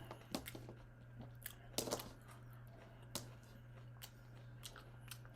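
A person chewing and eating close to the microphone: wet mouth clicks and smacks come at irregular moments, with a louder cluster about two seconds in, over a low steady hum.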